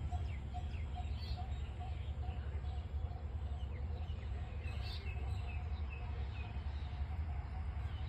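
Birds chirping in short falling calls over a steady low rumble, with a faint tone repeating about four times a second.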